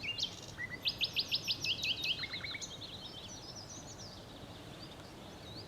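A songbird singing: a rapid run of sweeping high notes and a short trill between about one and two and a half seconds in, then scattered, fainter chirps.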